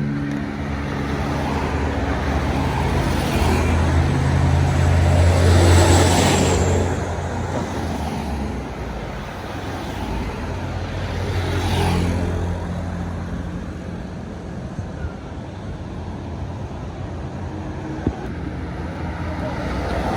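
Road traffic passing close by: a deep engine drone from heavy vehicles, swelling as one goes past about six seconds in and another about twelve seconds in.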